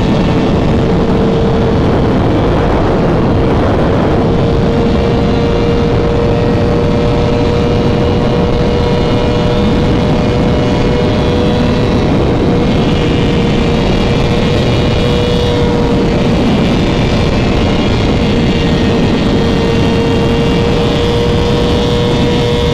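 Motorcycle being ridden at a steady speed. The engine holds a nearly constant pitch under a heavy rush of wind noise.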